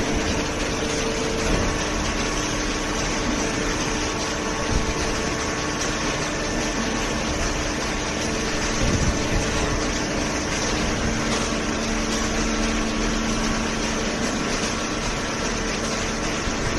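Hydraulic baling press running, a steady mechanical hum from its pump and motor with a few held tones and no breaks.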